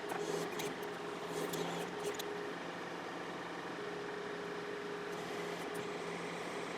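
John Deere 4052R tractor's diesel engine running steadily at low idle while powering the 485A backhoe's hydraulics, with a faint hum that fades out and back in partway through.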